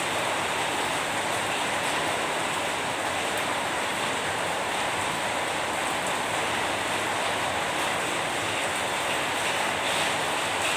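Steady heavy rain falling, an even rushing hiss with faint patter of drops, unchanging in level.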